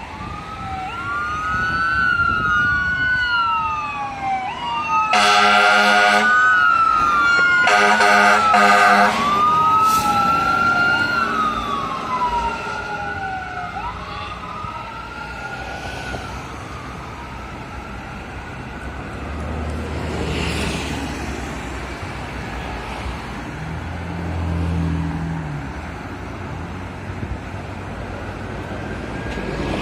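Fire truck siren wailing up and down about every two seconds, cut through by air-horn blasts: one long blast about five seconds in and two short ones around eight seconds. The siren then fades away, leaving the low rumble of vehicles passing.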